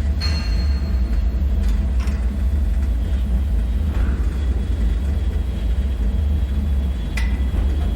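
Deep, steady rumbling drone of a dark bunker ambience. Just after the start comes a short metallic ring that fades within about a second, and a few sharp clicks or ticks sound later, the last near the end.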